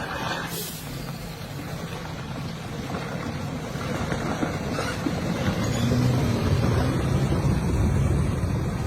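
Heavy truck engine running under load, a steady low rumble that grows louder about halfway through.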